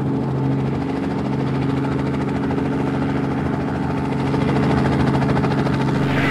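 A vehicle engine sound effect running steadily: a low, even hum with a rapid flutter.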